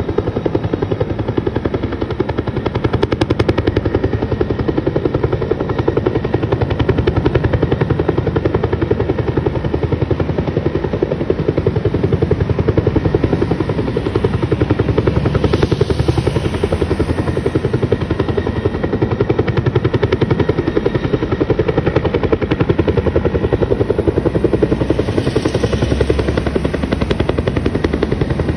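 Helicopter hovering, its rotor blades making a fast, steady chop.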